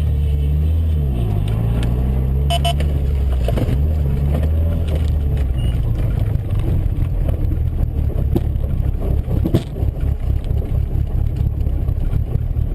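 Car engine running with road noise, its pitch dipping about a second in and then holding steady, with a few sharp knocks along the way; it cuts off abruptly at the end.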